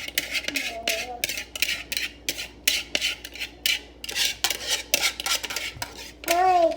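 A kitchen utensil scraping repeatedly against a dish as sauce is spread over a casserole layer, in short strokes about twice a second.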